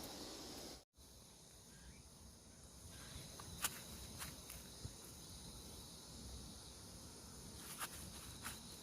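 Faint, steady high-pitched shrilling of crickets and other insects. The sound drops out for an instant about a second in, and a few short, sharp clicks come later.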